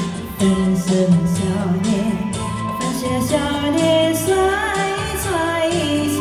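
A woman singing a Chinese pop song over band accompaniment with a steady beat; the melody wavers with vibrato on held notes.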